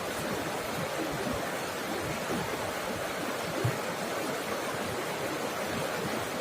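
Water of a waterfall flowing and babbling: a steady rush with small low gurgles scattered through it.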